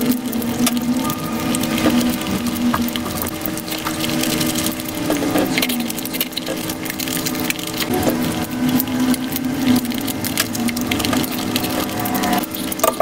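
Close-miked eating sounds: rapid wet smacking, chewing and crunching as chicken biryani and tandoori chicken are eaten by hand, over a steady low hum.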